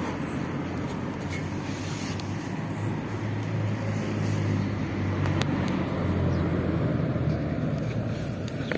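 Street traffic: a steady low vehicle engine hum that grows louder about four seconds in and eases off near the end.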